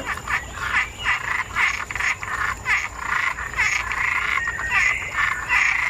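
A chorus of frogs croaking: many short calls overlapping and repeating rapidly, with a thin steady high whine behind them.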